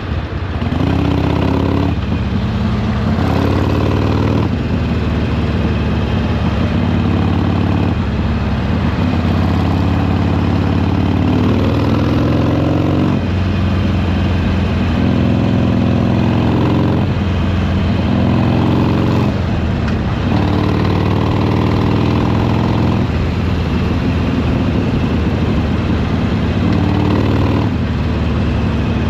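Harley-Davidson Sportster Iron 883's air-cooled 883 cc V-twin engine and exhaust under way, the pitch rising with the revs and dropping back again several times as the rider accelerates and shifts gears.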